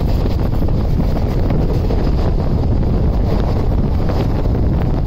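Wind buffeting the microphone over the steady running noise of a moving passenger train, with faint clicks through it.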